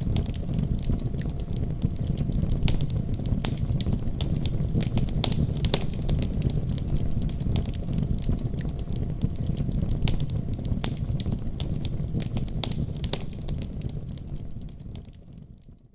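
Fire burning in a fireplace: a steady low rumble with frequent sharp crackles and pops. It fades out over the last couple of seconds.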